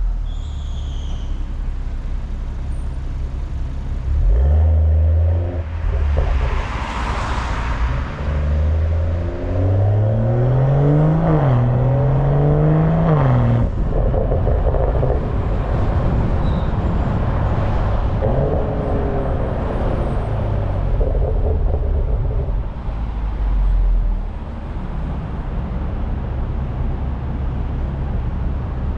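BMW M340i's turbocharged 3.0-litre straight-six heard from the rear exhaust under way, with wind buffeting on the microphone throughout. About ten seconds in it accelerates hard, its pitch climbing and dropping twice at upshifts.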